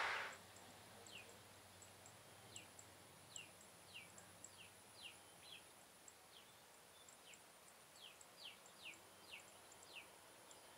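Faint bird calls: short high chirps that slide downward, repeated irregularly about every half second over near-silent background.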